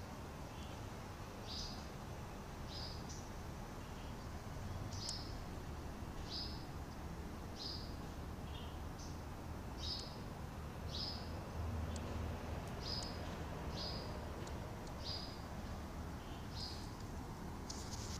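A small bird calling in short, high chirps, about one a second, over a steady low background rumble.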